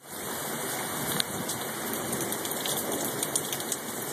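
Torrential rain pouring down, heavy enough to drop over an inch in about ten minutes: a steady, dense hiss with a few sharp ticks of drops striking something hard.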